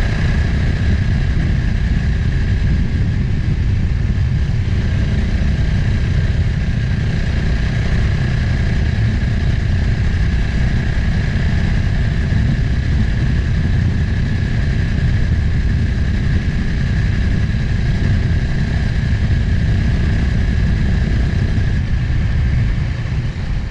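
Motorcycle engine running at a steady, even speed, with a low rumble and no revving. It fades out near the end.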